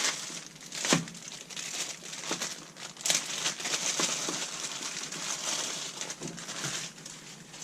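Packaging crinkling and rustling, with sharp crackles, as a new chainsaw chain is unwrapped by hand; the loudest crackle comes about a second in.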